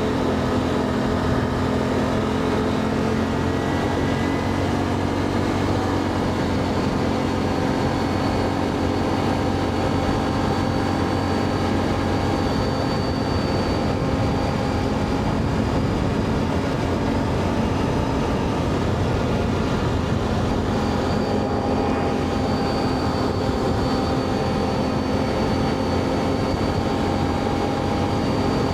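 Can-Am Outlander ATV engine running steadily while riding, its pitch drifting slightly up and down with speed.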